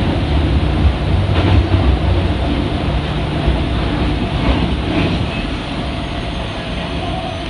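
Running sound inside a Kita-Osaka Kyuko 8000 series train car (Toshiba IGBT-VVVF): a steady low rumble of wheels and running gear with a few short clicks over rail joints. It grows gradually quieter over the second half.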